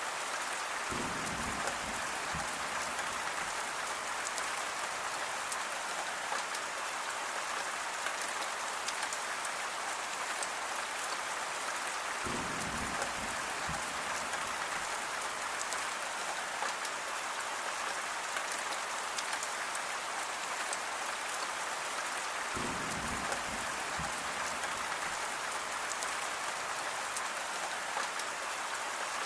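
Steady rain falling, with a dense even patter of drops. Three short low rumbles come about ten seconds apart, near the start, about twelve seconds in and about twenty-three seconds in.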